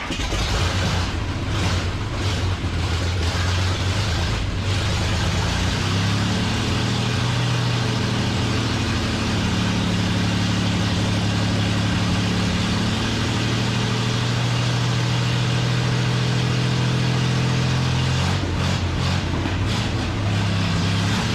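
Car engine running, coming in suddenly at the start; its pitch rises and shifts in the middle, then holds steady.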